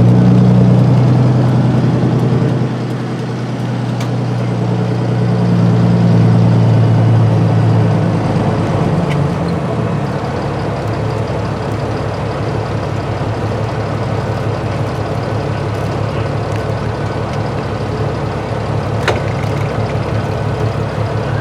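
Peterbilt 389 semi truck's diesel engine running on the road. The engine note is stronger for about the first eight seconds, then settles to a lower, steady note.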